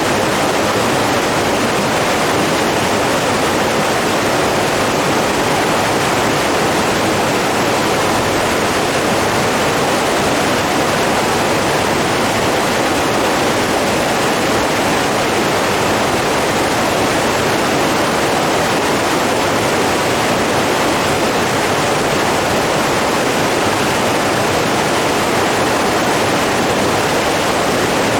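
Running water rushing steadily, an even unbroken roar with no rise and fall.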